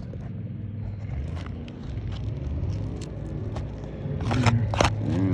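A steady low rumble with scattered light clicks and taps, which grow louder and more frequent near the end.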